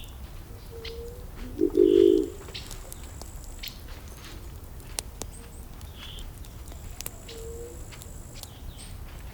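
Burning wood crackling, with scattered sharp pops over a low steady rumble. A bird calls with a short, low call about two seconds in, the loudest sound, and brief high chirps come now and then.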